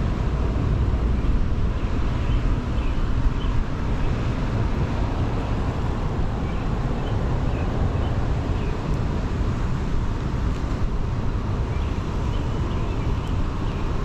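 Steady low outdoor rumble with no clear pattern, with faint short high chirps scattered through it.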